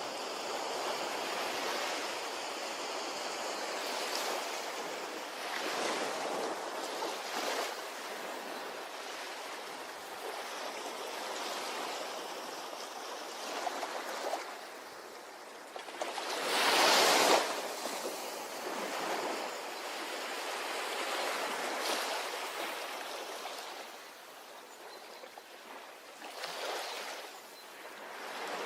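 Small waves washing onto a beach, a steady hiss of surf that swells and ebbs, with one louder wave breaking about two-thirds of the way through.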